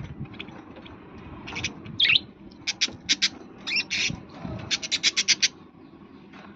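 Parrot calling: a string of short, high-pitched chirps and squawks, some in quick runs of several notes, starting about a second and a half in and stopping about a second before the end.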